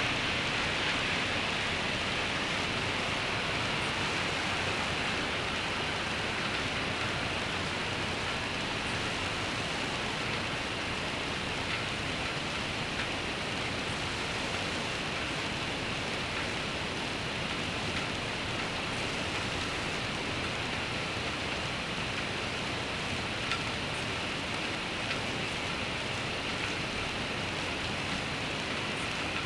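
Steady rain falling, an even, unbroken hiss, with a few slightly louder drops in the second half.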